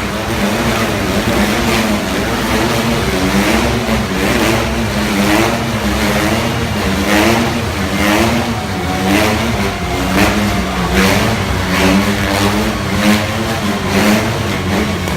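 Several motorcycle engines revving inside the globe of death, swelling and fading about once a second as the bikes loop around the cage.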